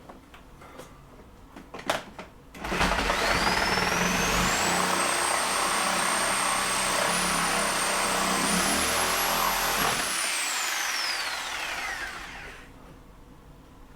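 Power saw started up and cutting through wall paneling with a high, steady motor whine for about seven seconds, then released and winding down with a falling whine. A few sharp knocks come just before it starts.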